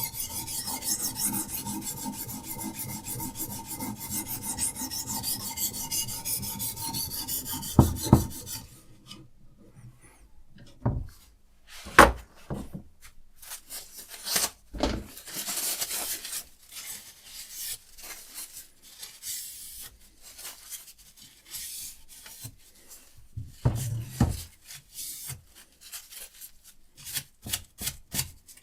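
Diamond sharpening stone on a Hapstone RS guided sharpener stroking rapidly along a knife blade, a steady rasp that stops about eight seconds in. After that come scattered clicks and knocks from handling the sharpener, the loudest a sharp click a few seconds later.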